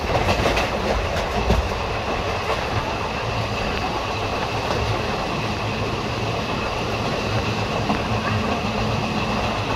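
Passenger coach of a moving Indian Railways express train running at speed: a few sharp clacks of the wheels over rail joints in the first second or so, then a steady rumble and rush of running noise.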